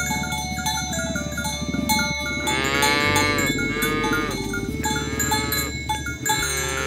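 Cattle mooing: one long call starting about two and a half seconds in and lasting about two seconds, then shorter calls near five seconds and at the end.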